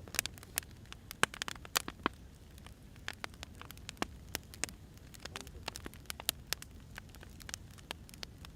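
Firewood burning, crackling with irregular sharp pops and snaps over a soft steady hiss.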